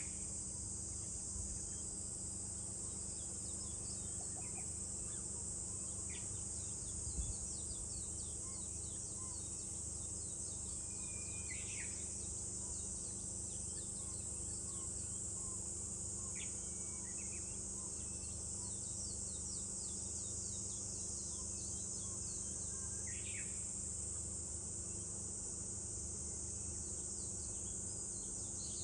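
Cicadas droning steadily in a high, continuous hiss, with short bird calls dotted through every few seconds. A low steady rumble sits underneath, and there is one soft thump about seven seconds in.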